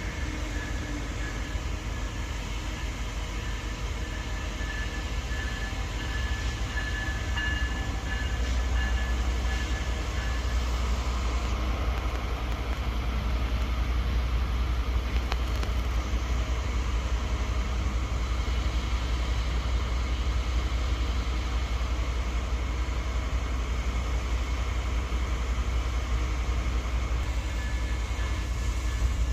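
Metra diesel commuter train on the BNSF line running on the tracks: a steady low rumble that grows louder about eight seconds in, with a faint high whine in the first several seconds.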